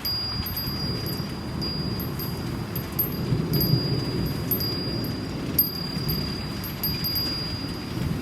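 Steady rain with a Japanese wind chime tinkling, its single high note struck again every half second or so and ringing on. A low rumble swells in the middle.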